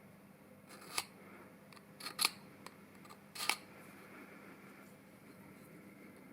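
Small metal parts being handled: three short, sharp clicks, about a second in, a double click just after two seconds and one about three and a half seconds in, over a faint steady hum.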